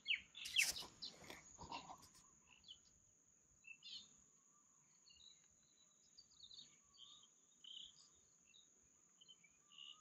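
Quiet riverside with faint, scattered bird chirps and a faint steady high-pitched hum, likely insects. A few brief rustles or handling noises come in the first two seconds.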